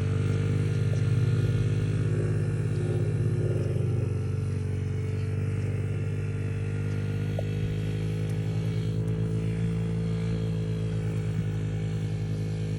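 A small dirt bike engine running at a steady idle, its pitch holding even throughout.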